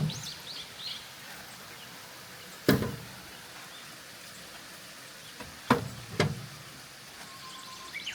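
Three sharp knocks, one about two and a half seconds in and two close together near six seconds, with birds chirping at the start and again near the end.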